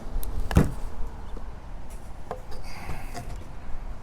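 PVC pipe pieces being handled: one sharp knock about half a second in, a lighter click after about two seconds, and a brief scratchy rub near the middle.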